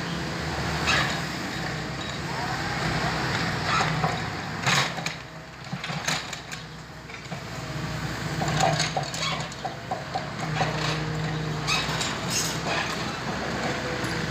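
An engine running steadily, with scattered knocks and cracks over it.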